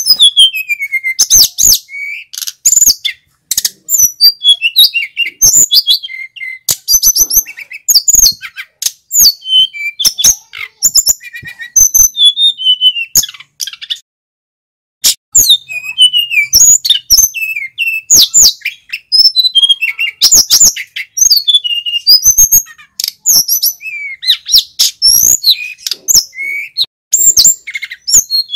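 Male mountain flycatcher (sikatan gunung) singing a long, loud, rapid song of high whistles, trills and sharp chips, with a short break about halfway through.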